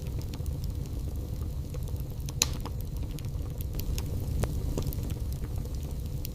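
Wood fire burning in a fireplace: a low steady rumble of flames with scattered sharp crackles and pops, one louder snap about two and a half seconds in.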